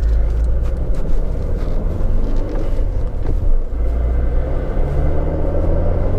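Turbocharged Volkswagen GLI driving, heard from inside the cabin: a steady low engine and road rumble, with the engine note rising a couple of times as it pulls.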